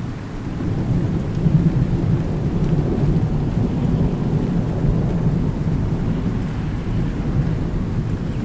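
Thunder rolling over steady rain: a low rumble swells about a second in and keeps going under the hiss of the rain.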